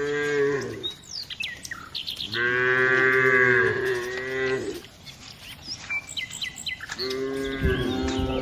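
Cows mooing: three drawn-out moos, one fading about a second in, a long one in the middle and another near the end. Birds chirp between the moos, and a low rumble comes in near the end.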